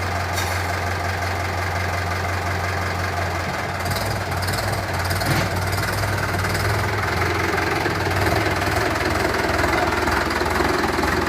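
Swaraj tractor's diesel engine, running on diesel made from waste plastic, runs steadily. About four seconds in its note changes and it runs a little louder.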